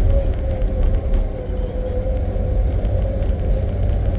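Safari vehicle driving along a forest dirt track: engine and a heavy low rumble with a steady whine, and occasional small rattles and knocks.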